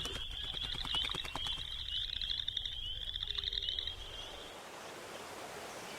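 A rapid, high-pitched animal trill that pulses steadily for about four seconds, then fades, leaving a faint outdoor hiss.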